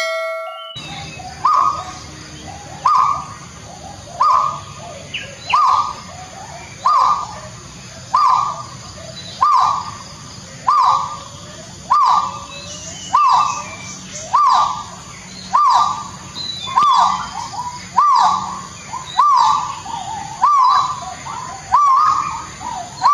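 Great argus pheasant calling in a long, regular series of loud notes, roughly one every second and a half, each rising sharply in pitch. A steady high hum of forest insects runs underneath.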